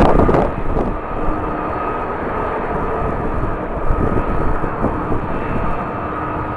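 Jet airliner engines running with a steady whine over a rushing noise. A gust of wind on the microphone dies away in the first half second.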